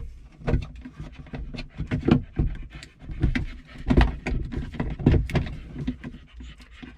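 Irregular plastic knocks, taps and clatter as the flush pump parts of a Thetford C200 cassette toilet are pushed and wiggled into place inside the toilet housing.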